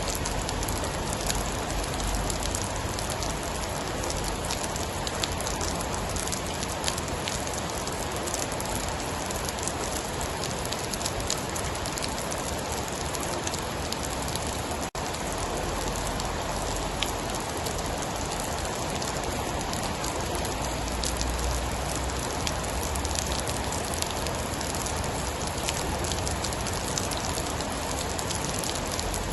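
Steady heavy rain pattering on a surface, with many sharp individual drop ticks. A momentary dropout about halfway through breaks the even sound.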